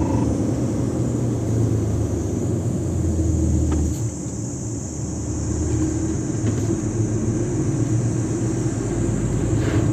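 Diesel engine of an Isuzu Giga semi-trailer truck running under way with a steady low rumble. About four seconds in it eases off and gets quieter, then builds back up.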